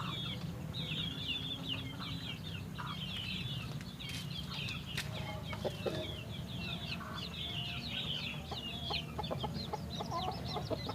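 Many small birds chirping and twittering without pause, with chickens clucking now and then, more in the second half. A steady low hum runs underneath.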